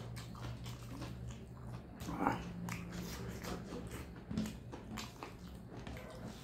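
Close-up wet chewing and lip smacking of a mouthful of rice and curry eaten by hand, in quick irregular clicks, over a steady low hum.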